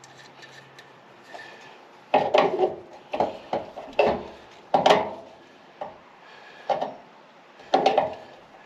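A series of short clinks and knocks, about seven over several seconds, as small metal parts and hand tools are handled while rivet nut inserts are being set.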